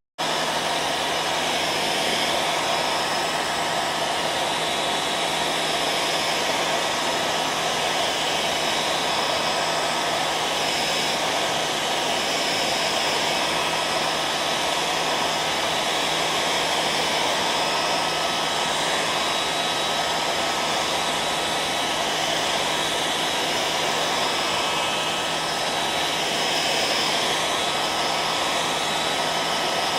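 Hair dryer running steadily: an even rush of blown air with a steady motor hum through it. It drops out for an instant at the very start.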